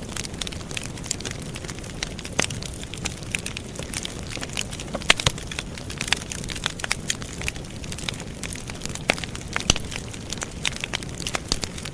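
Wood campfire burning, crackling and popping irregularly over a steady low rush of flame, with a few sharper pops about five and ten seconds in.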